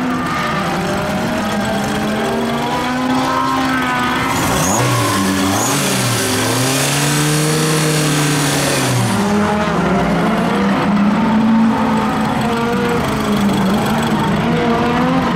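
Toyota AE86's 4A-G engine, built with dry-sump lubrication and FCR41 carburetors, running in the open engine bay and being revved: the pitch rises and falls repeatedly, with one longer rev held for a few seconds around the middle with a strong intake hiss. It is a break-in run of the rebuilt engine.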